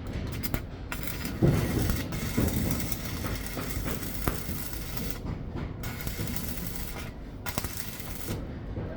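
Steady mechanical rumble with a few knocks and clanks, the loudest about one and a half seconds in.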